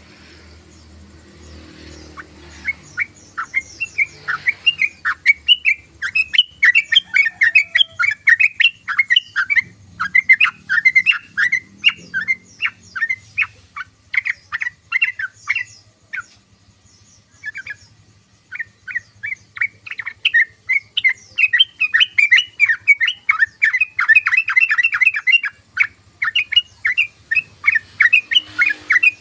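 Yellow-vented bulbul (trucukan) in chattering song: long runs of rapid, short chirping notes, several a second. The runs break off briefly a little past the middle and again near the end.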